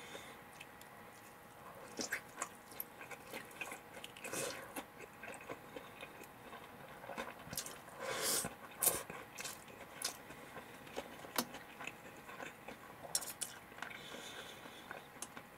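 A person chewing a mouthful of sauce-coated fried chicken (karaage), with scattered soft clicks and brief mouth noises.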